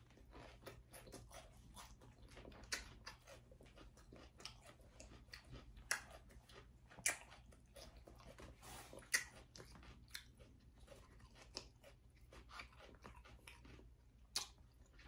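A person chewing crisp salad close to the microphone: irregular crunches and bites, a few of them louder, over a faint steady low hum.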